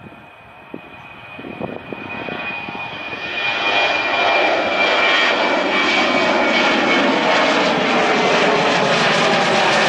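Jet airliner's engines growing louder over the first few seconds as it approaches, then a steady loud rush with a high whine that slowly drifts lower.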